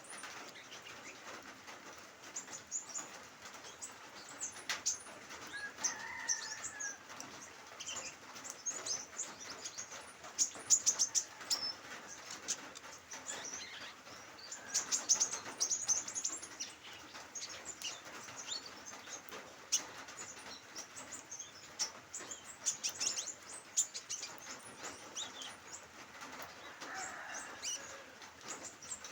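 Sunbirds twittering, with many short, high chirps coming and going, over the steady patter of a light drizzle.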